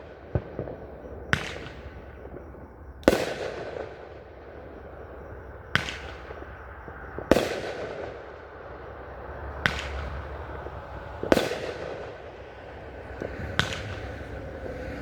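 Fireworks going off in a slow series of about eight sharp bangs, one every couple of seconds, each trailing off in a rumbling echo.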